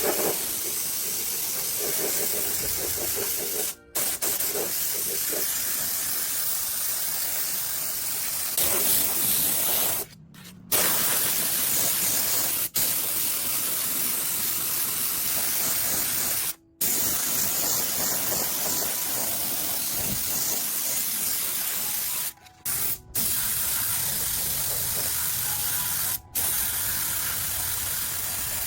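Steady spraying hiss, high and airy, broken by several abrupt cuts.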